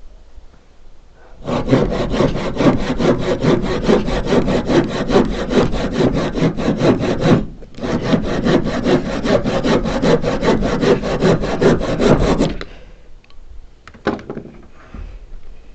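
Handsaw (a panel saw) cutting through wood in quick, even back-and-forth strokes. It saws in two long runs with a brief pause about seven and a half seconds in, and stops about twelve and a half seconds in. A couple of light knocks follow near the end.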